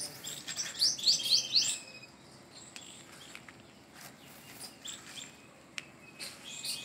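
Small birds chirping: a quick run of short rising chirps in the first two seconds, then fewer calls, picking up again near the end. A few faint sharp ticks sound in the quieter middle.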